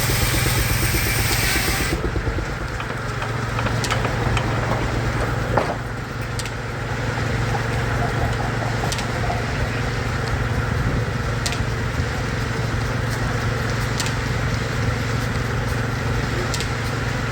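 Steam-driven Frick circular sawmill running. A loud hissing rush cuts off sharply about two seconds in, leaving the steady hum of the machinery with scattered clicks.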